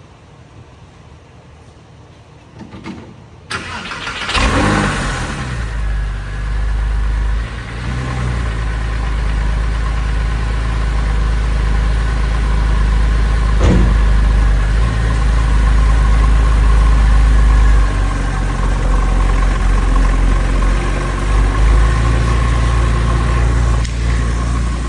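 Porsche 996 Carrera 4S's 3.6-litre flat-six on a cold start: the starter cranks about three and a half seconds in, the engine catches with a brief rev flare, then settles into a steady cold idle.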